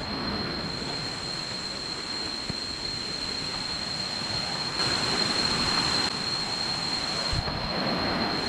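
Steady rush of falling water from a nearby jungle waterfall, growing a little louder for about a second in the middle.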